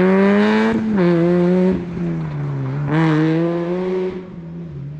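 Rally car engine at high revs, accelerating hard with short throttle lifts for gear changes about one second and just under two seconds in. It fades as the car drives away near the end.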